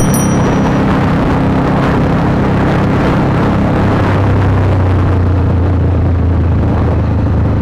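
Honda CBR150R's single-cylinder engine running steadily through an aftermarket Akrapovic exhaust on the move, with a haze of wind and road noise over it; its low hum grows stronger about halfway through.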